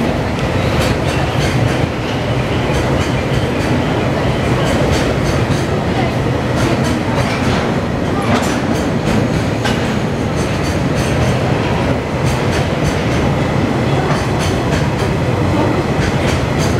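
A freight train of oil tank wagons running past at speed: a steady rumble of wheels on rail with many quick clicks as the wheels cross the rail joints.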